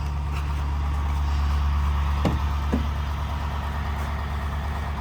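Pickup truck engine running steadily, heard from inside the cab as a low, even hum. Two short squeaks that fall in pitch come about two seconds in.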